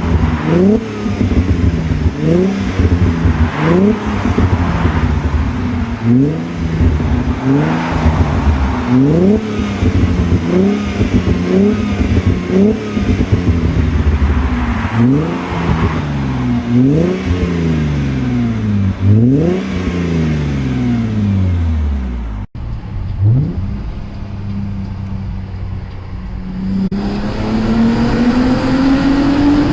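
Mercedes-Benz V6 engine revved again and again in quick throttle blips, each rising sharply and falling back, about one every second and a half. Later it drops to a steady idle, and a slower rev climbs near the end.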